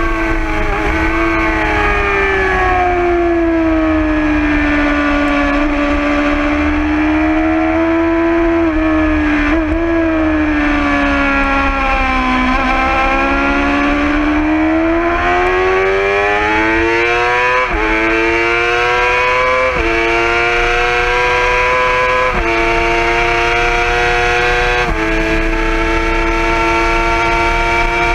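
2011 Yamaha R6's 600 cc inline-four engine heard from the bike itself at track speed, with wind noise. The revs sink slowly for about twelve seconds as it slows, then climb hard, with four quick upshifts in the second half, each one dropping the pitch before it rises again.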